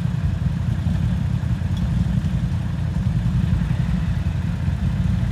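ATV engine running steadily, a low, choppy drone with no clear changes in pitch.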